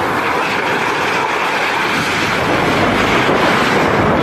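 Storm wind blowing hard: a loud, steady rushing noise, with gusts buffeting the microphone.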